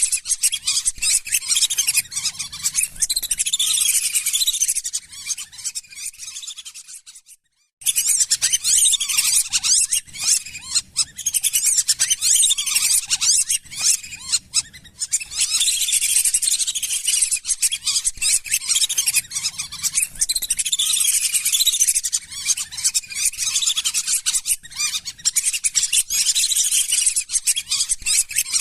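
A flock of lesser whistling ducks calling nonstop in dense, overlapping high whistles. About six seconds in, the calls fade out to a moment of silence, then start again at full strength: the join in a looped lure recording.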